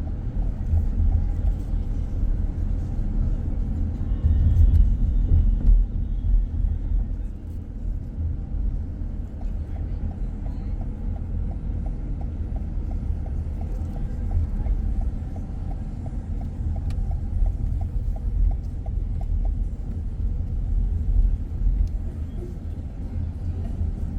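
A car driving, its engine and tyres making a steady low road rumble.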